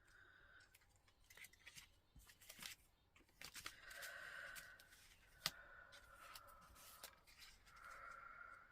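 Faint paper-craft handling: card stock being cut and shifted with scissors, several soft swishing snips and rustles with small sharp clicks, the sharpest about five and a half seconds in.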